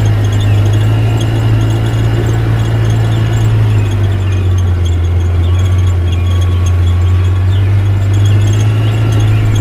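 Small motor of a DIY mini paddy thresher running with a steady low hum that drops slightly in pitch about four seconds in, with faint repeated high squeaking from the moving parts.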